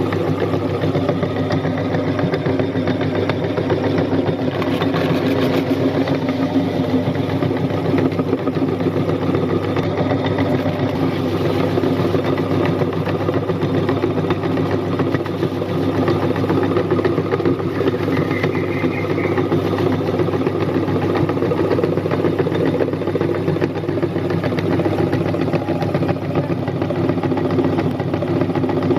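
Electric meat grinder motor running steadily with an even hum.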